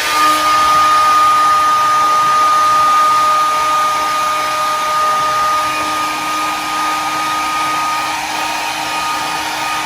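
Hand-held hair dryer running steadily: a loud blowing rush with a thin, even whine, the highest part of which fades out about eight seconds in.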